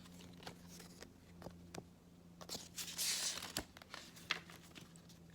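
A page of a small paper picture book being turned, a soft papery rustle about two and a half seconds in, with a few light taps and clicks around it.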